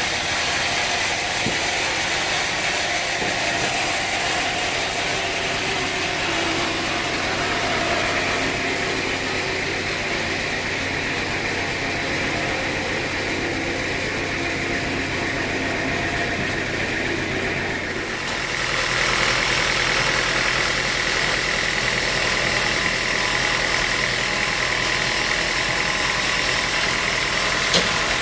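Sawmill machinery running with a steady mechanical drone. About eighteen seconds in, the sound shifts and grows slightly louder, with a steady higher-pitched whine.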